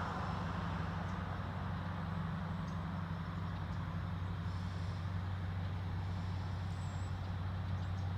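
Diesel engines of genset switcher locomotives running with a steady low drone as the train creeps forward.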